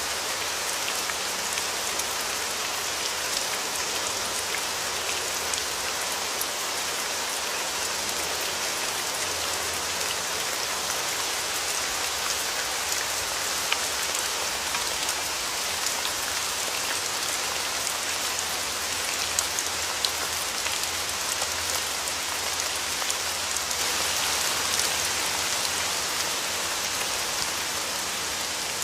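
Steady rain falling on a surface, a dense hiss with many small drop ticks, a few individual drops standing out briefly.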